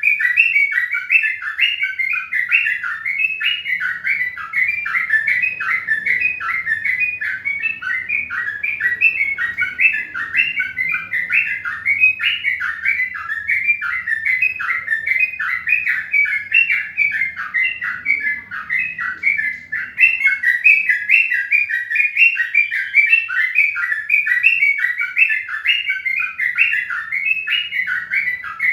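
Birds chirping in a fast, unbroken series of short repeated notes.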